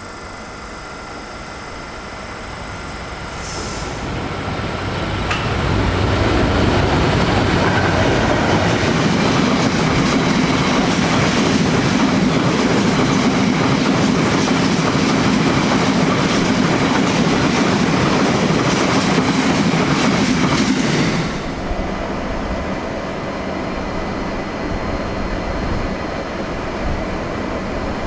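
Class 66 diesel freight locomotive, with its two-stroke V12 engine, approaching and passing with its wagons, building up over the first few seconds and loud and steady for about fifteen seconds. About 21 s in the sound cuts suddenly to the quieter running of a Class 377 electric train arriving.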